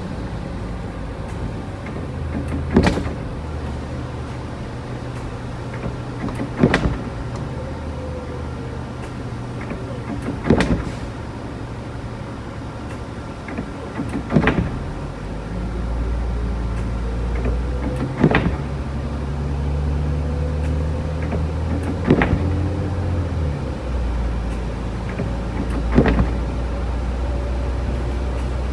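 Inside a moving car: a steady low engine and road hum, with a sharp thump about every four seconds, seven times. The thumps fit windshield wipers on an intermittent setting clearing snow.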